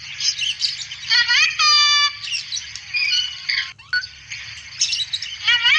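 Cockatoo and bird calls: a dense run of high chirps and twitters, with two pitched calls that glide upward and then hold a steady tone, about a second and a half in and again near the end.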